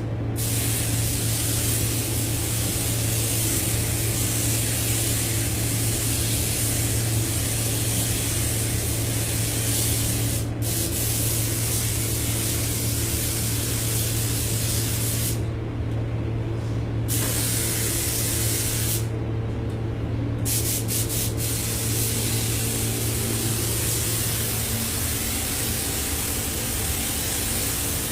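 Compressed-air paint spray gun hissing steadily as it sprays car paint, with the hiss cutting out briefly twice past the middle as the trigger is let go. A steady low hum runs underneath.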